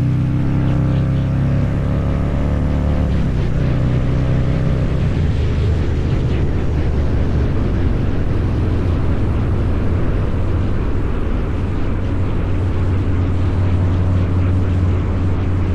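Harley-Davidson Low Rider's 129 cubic inch V-twin running under way through a Two Brothers Racing exhaust. The engine holds a clear, even note for the first few seconds, changes about three seconds in, then runs rougher and noisier with the exhaust note low and steady.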